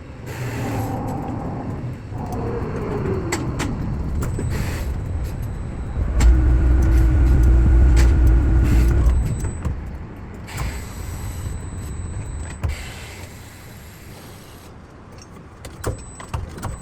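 A motor running with a low rumble, loudest for a few seconds about six seconds in, when a steady whine rises over it; scattered clicks and knocks come and go.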